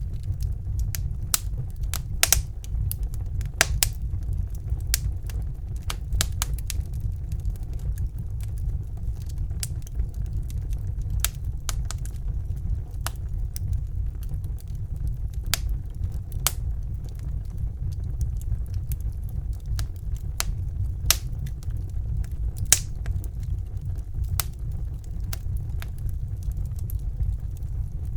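Fire burning in a fireplace: irregular sharp crackles and pops, a few of them louder, over a steady low rumble.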